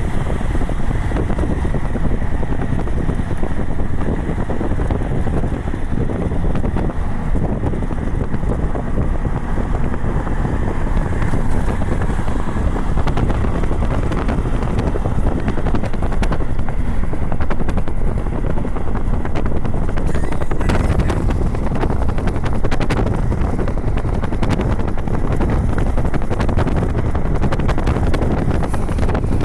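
Wind buffeting the microphone over a steady low rumble, with a light crackle throughout.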